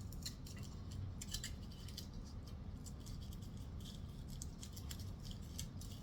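Foil wrapper of a Hershey's Kiss being peeled off by hand, giving faint, irregular crinkles and crackles.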